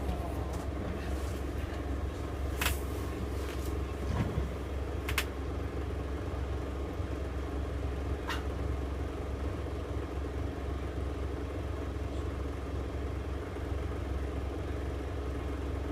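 A steady low rumble with three light, sharp clicks spaced a few seconds apart.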